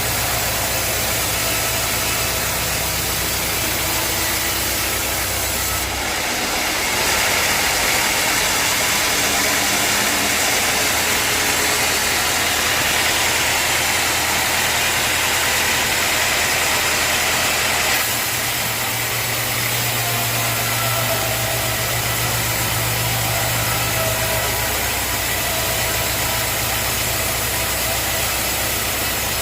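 Sawmill machinery running steadily: an engine-like drone under a hiss of noise. The sound changes abruptly about six seconds in, when the low drone fades and a brighter hiss rises, and changes back near eighteen seconds.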